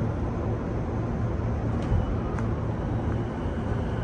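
Inside an E233 series 2000 electric commuter train: a steady low hum as the train starts to pull away from the platform, with two faint clicks about two seconds in.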